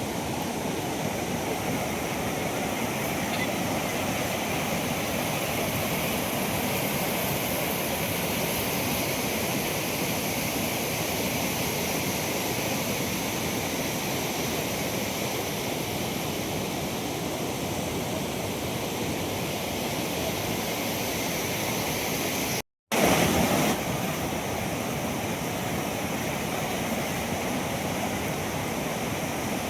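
Flood-swollen river rushing steadily, a dense even roar of water. It drops out for a moment about three-quarters of the way through and comes back briefly louder.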